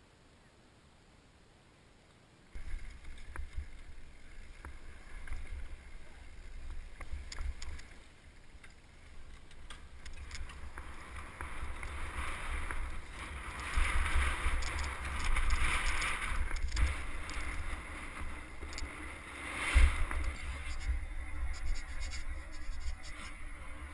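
Near silence for about two seconds, then heavy wind rumble on a helmet or bike-mounted action camera's microphone, with rattles, clicks and knocks from a mountain bike riding over rough trail. The loudness rises and falls.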